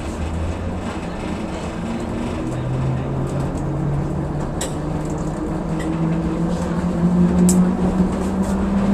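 Train's diesel engine revving up as the train pulls away, its note rising steadily in pitch, with a few light clicks from the cab.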